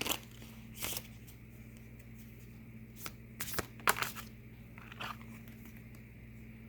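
Tarot cards being handled and drawn: a few scattered short slaps and rustles, the clearest just before four seconds in, over a steady low electrical hum.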